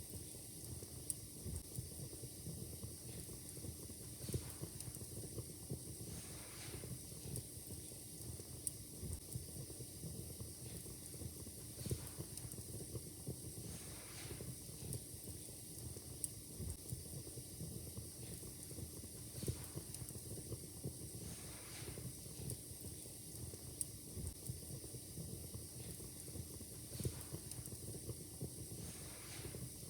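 Wood fire crackling in a fireplace: irregular sharp pops and snaps over a steady low hiss and rumble of burning.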